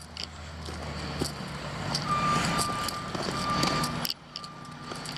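Reversing alarm of a heavy construction vehicle beeping, starting about two seconds in, over the vehicle's diesel engine running. The engine noise swells, then drops off sharply about four seconds in.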